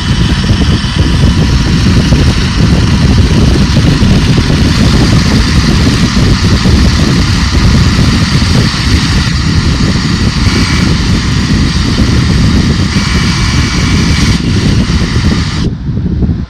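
Electric drill running steadily with an abrasive bit spinning inside a tractor loader control valve's bore, cleaning burrs and rust from it. Most of the high hiss stops about a second before the end.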